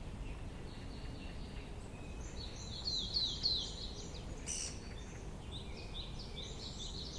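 Songbirds singing: runs of quick, repeated high falling chirps, one run about a third of the way in and another near the end, over a steady low background noise.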